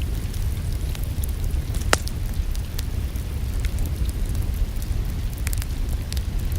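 Wood fire in a fireplace crackling, with scattered sharp pops, the loudest about two seconds in, over a steady low rumble mixed with rain.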